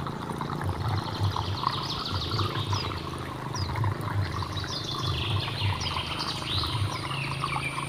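Birds chirping repeatedly over running stream water, with a steady high insect whine throughout.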